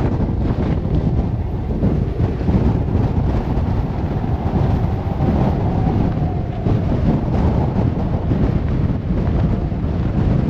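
Strong wind buffeting the microphone: a loud, steady low rumble of wind noise.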